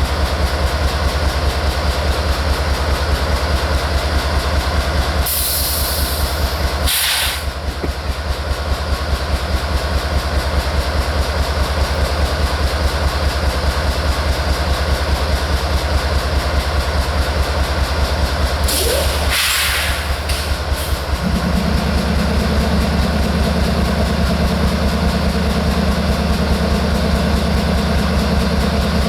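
Florida East Coast Railway diesel-electric locomotive running at a steady low rumble, with two short bursts of hissing. A steady hum joins about two-thirds of the way through.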